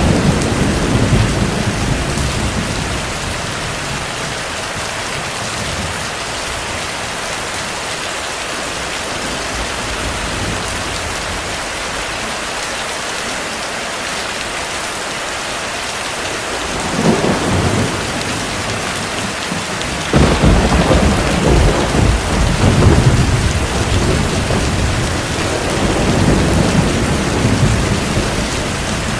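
Steady heavy rain with rolling thunder. One rumble dies away in the first couple of seconds, a short one comes about 17 seconds in, and a longer, louder rumble rolls from about 20 seconds in almost to the end.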